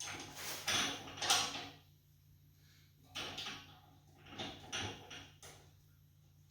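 Short metallic knocks, clatters and scrapes in irregular bunches, from bolts and steel handle parts being handled and fitted to a portable generator's frame.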